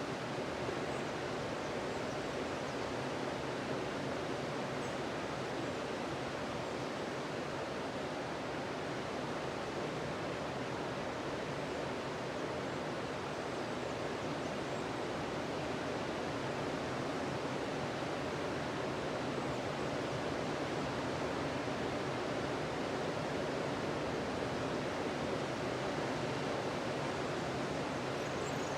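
Ocean surf washing onto a sandy beach: a steady, even rush of waves with no single crash standing out.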